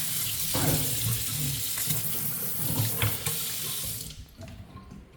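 Kitchen sink faucet running, water splashing into the sink, then shut off about four seconds in.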